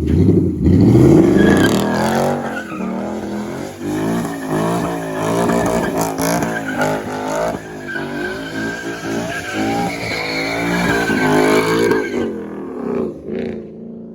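Car engine revving hard, its pitch climbing at the start and then swinging up and down, with tires squealing as the car spins its wheels in a burnout or donuts. The noise dies down about twelve seconds in.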